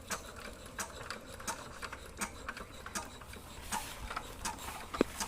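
Irregular mechanical clicking and ticking, about one or two sharp clicks a second, over a faint low rumble, with a louder click near the end.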